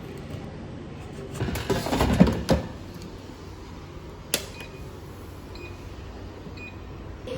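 Kitchen items being handled, rustling and clattering for just over a second, then one sharp click a couple of seconds later.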